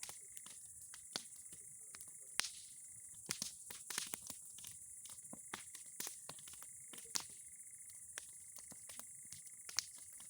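Bonfire of old boards and pine cones crackling, with irregular sharp pops that come thickest about three to four seconds in, over a steady high-pitched chirring in the background.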